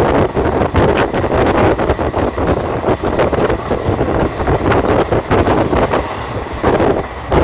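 Passenger train running along the track, a steady rushing clatter with wind buffeting the microphone.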